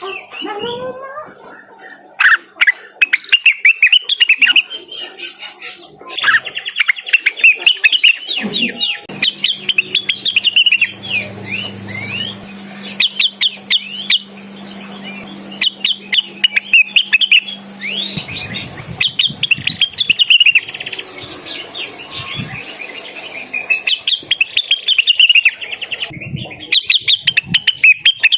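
Cucak wilis (a leafbird) singing in long, rapid runs of high chirps and trills, some phrases very loud, broken by short pauses.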